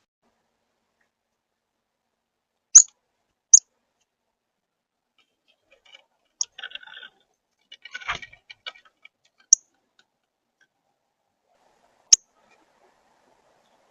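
Single short, sharp, high chip calls of a small songbird at a bird feeder, five of them spaced a few seconds apart, with a brief patch of soft scratchy rustling midway.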